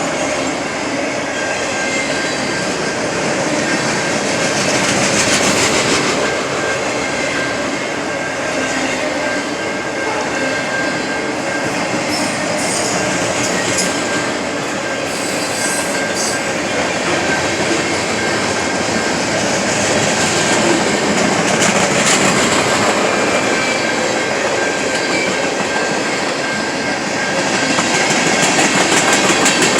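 Train cars rolling past at close range: a continuous rumble and clatter of wheels on rail, with a thin, steady, high-pitched wheel squeal running through it.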